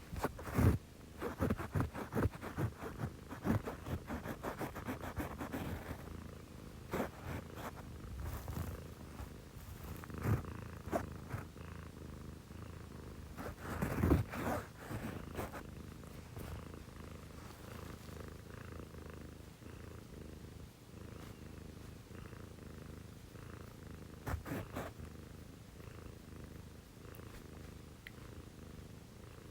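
Domestic cat purring close up, a steady low rumble that grows louder and more uneven in the first few seconds and again about fourteen seconds in. The cat has just woken.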